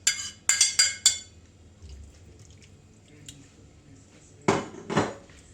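Kitchen utensil clinking sharply against a dish several times in quick succession, then two or three heavier knocks of crockery about four and a half seconds in, as chicken pieces are moved into a bigger baking dish.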